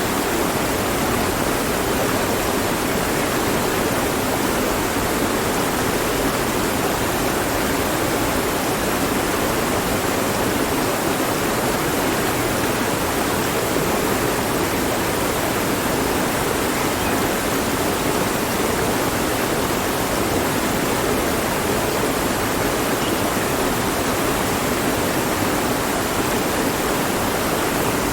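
Mountain stream running over rocks, a steady, even rush of water with no change.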